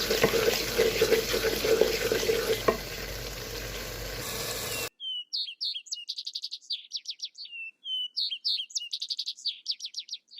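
Food sizzling in a frying pan with the clicks of stirring, cutting off abruptly about halfway through. A bird then sings two similar song phrases, a few seconds apart, with no other sound behind them.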